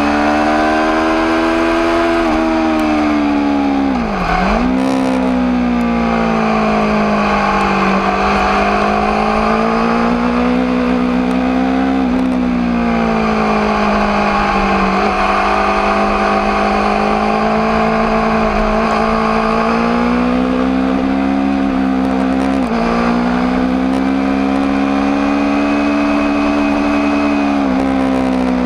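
Aprilia RSV4 APRC's 65-degree V4 engine running at high revs, its pitch rising and falling with the throttle. The revs drop sharply and pick up again about four, twelve and twenty-three seconds in.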